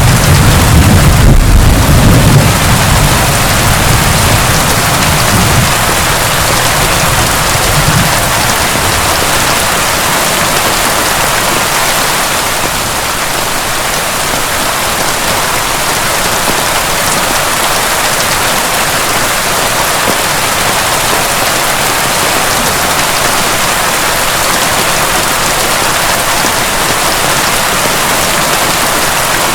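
Heavy, steady rain pouring down, with a deep thunder rumble that dies away over the first several seconds, leaving only the rain.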